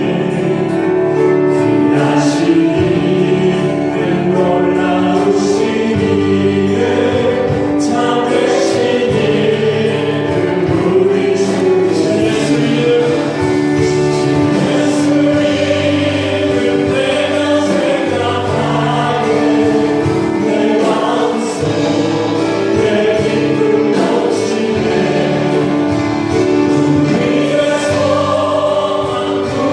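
A church praise team singing a Korean contemporary worship song together, with instrumental accompaniment.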